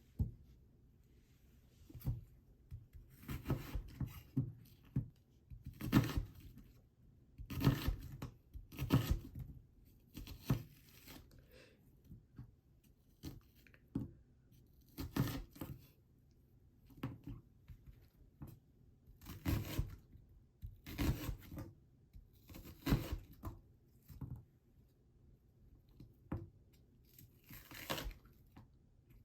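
A series of short, noisy tearing or rustling sounds, one every second or two, with quiet gaps between.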